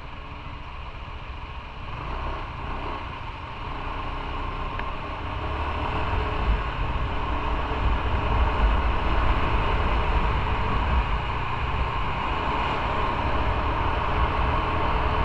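Motorcycle engine running under way, with wind and road noise on the helmet or bike camera. It starts fairly quiet, builds over the first several seconds as the bike picks up speed, then holds steady.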